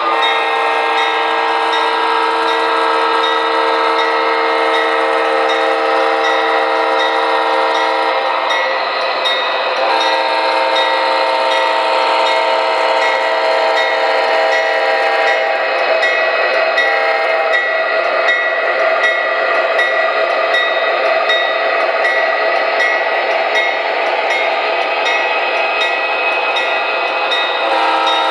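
Onboard sound system of an MTH Premier O-gauge ES44AC model diesel locomotive playing a multi-tone horn: a long blast of about eight seconds, a break, then a second blast of about five seconds, over a steady running noise from the locomotive.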